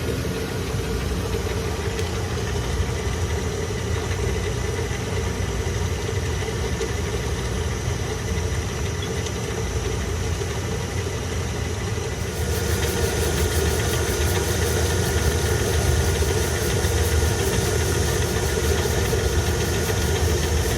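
Steady mechanical drone of machinery running, with a constant hum. About twelve seconds in it grows louder and picks up a fast, fine ticking.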